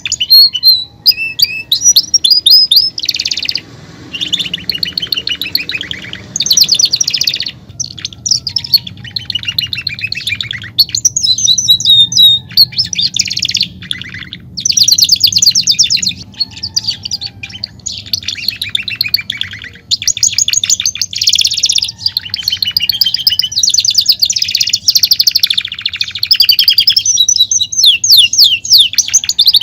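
Belgian canary singing a long, loud song in the 'campainha' (bell) style: phrases of fast, rapidly repeated notes and rolls alternating with quick rising chirps, broken by short pauses.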